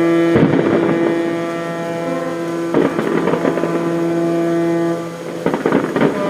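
Several ships' horns sounding together in long, steady, overlapping blasts, the harbour's New Year horn salute; the deepest horn stops about five seconds in while others keep sounding. Rough gusts of noise, wind on the microphone, break in now and then.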